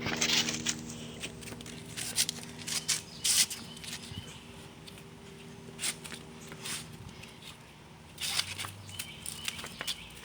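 Scattered light scuffs, taps and patter, with a faint steady low hum underneath that fades out about two-thirds of the way through.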